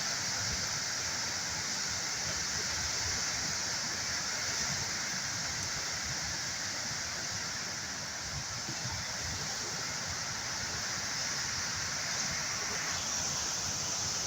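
Steady rush of a river in flood, swollen and fast-flowing.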